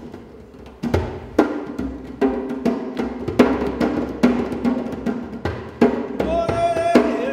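Live solo improvised music on pitched hand percussion: struck notes ring out at an irregular pace, joined about six seconds in by a held higher tone for under a second.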